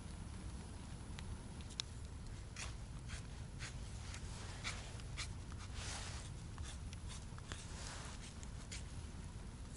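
Scattered rustles and small clicks, with two longer swishing rustles near the middle and later on, over a steady low rumble.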